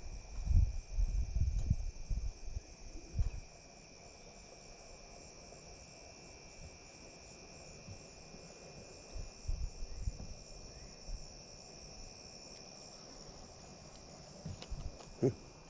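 Steady high-pitched chorus of insects trilling in fine rapid pulses, with loud low rumbles and thumps over the first three seconds and a few more later.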